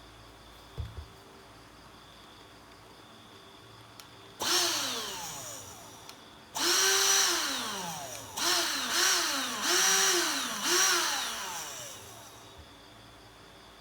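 Electric hand blower motor switched on in short bursts, about five times. Each time it whines up to speed and then winds down in pitch as it coasts to a stop, the blower being trigger-tested through its power switch.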